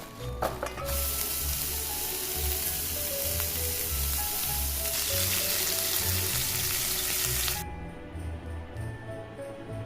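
Food sizzling in a frying pan for several seconds, cutting off suddenly near the end, over background music.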